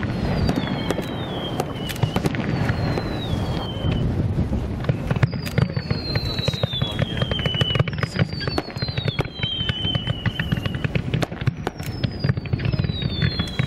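Fireworks display: a dense run of bangs and crackling over a low rumble, with whistling fireworks giving about six long whistles that each slide down in pitch.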